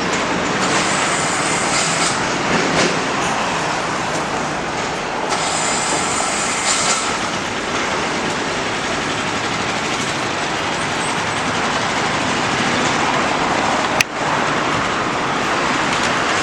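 Steady din of passing vehicles, twice swelling into a brief hiss, with a single sharp click near the end.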